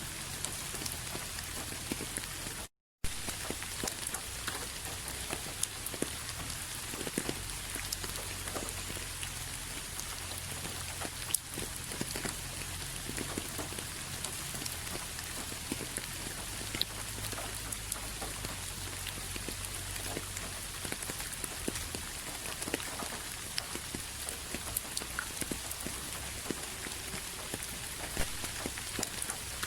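Steady rain falling, many separate drops striking a surface. The sound cuts out completely for a split second about three seconds in.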